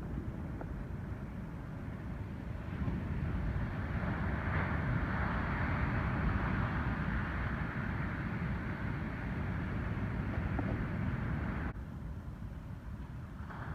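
Breaking ocean surf from an incoming typhoon swell, with wind rumbling on the microphone. The wash of a wave builds from about three seconds in and cuts off abruptly near the end.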